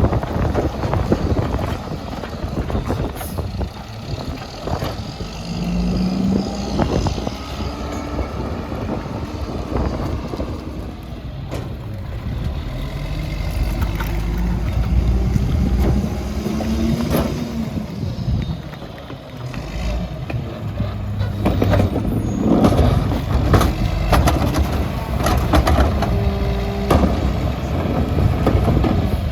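Mack MR rear-loader garbage truck running, its engine revving up and falling back several times, with scattered clanks and knocks.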